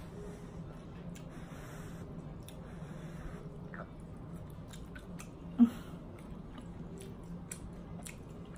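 A person chewing a forkful of macaroni, with soft wet mouth sounds and faint clicks. A single short, sharp click stands out about five and a half seconds in.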